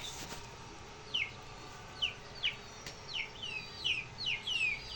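Chicks cheeping: a run of short, high, falling peeps, spaced out at first and coming faster near the end.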